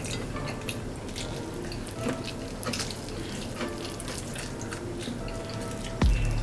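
Close-up eating sounds: wet mouth clicks and chewing while eating fried chicken and rice by hand, with scattered soft ticks throughout. A louder low sound comes in near the end.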